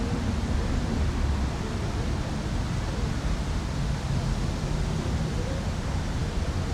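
Steady outdoor lakeside city ambience: an even hiss with a low rumble underneath, holding level, with faint far-off voices now and then.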